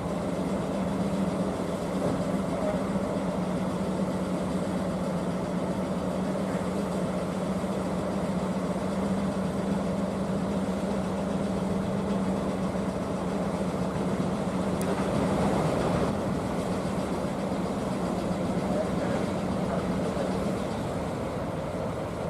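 A DE11 diesel-hydraulic shunting locomotive's engine running steadily with a low, even drone, which fades near the end.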